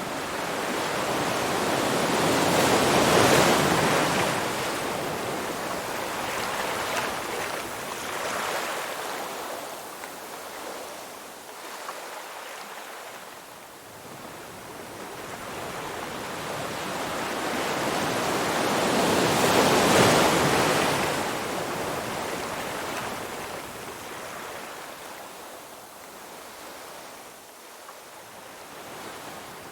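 Ocean surf washing ashore: a wave swells and breaks about three seconds in and another about twenty seconds in, each falling away into a softer hiss of receding water.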